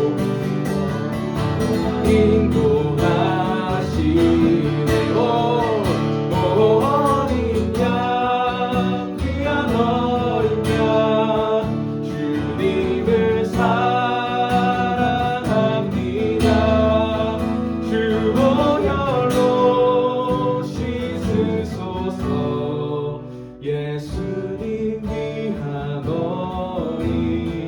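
Worship song sung by a group of voices over acoustic guitar accompaniment, with a short drop in level near the end.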